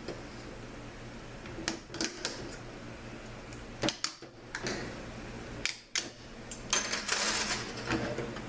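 Metal parts of a 200-4R transmission's overdrive section clinking and knocking as they are handled and pulled apart: a handful of separate sharp clicks, then a short rattling scrape near the end.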